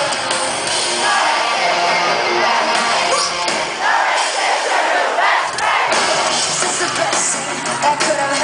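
Rock band playing live, with a large crowd singing and yelling along. The bass drops away briefly about four seconds in, then returns.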